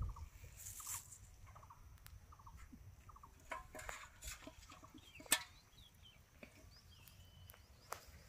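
Faint bird calls: short clusters of two or three quick notes, repeated about every two-thirds of a second for the first few seconds, then a few sharp clicks, the loudest about five seconds in.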